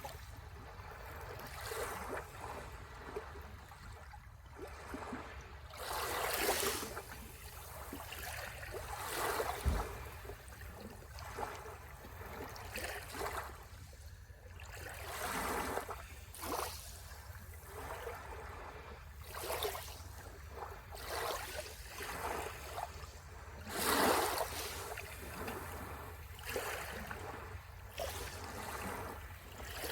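Sea waves washing onto the shore, the hiss of surf swelling and fading every few seconds, with a few bigger waves breaking louder, over a steady low rumble.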